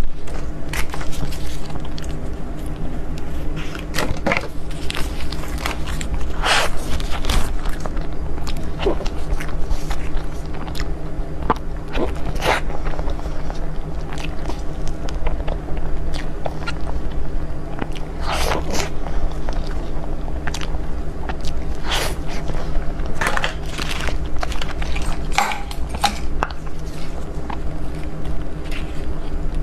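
Close-miked eating of desserts: bites and chewing, with irregular sharp mouth and food clicks every second or so, over a steady low hum.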